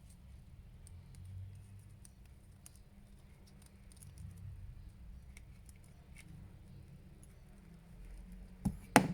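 Faint clicks and rustles of small plastic action-figure parts being handled and fitted together, with two sharp, louder clicks just before the end.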